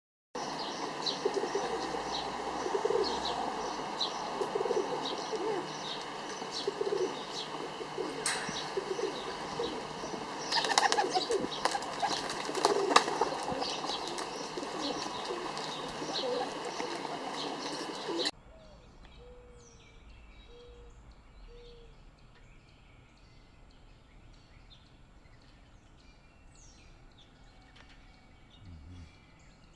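Birds calling: a busy stretch of rapidly repeated high chirps over low pigeon cooing, with a few sharp flutters. It cuts off abruptly about eighteen seconds in, leaving fainter, scattered birdsong.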